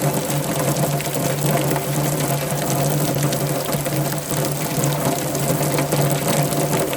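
Steady rain, a dense patter of drops, over a constant low hum.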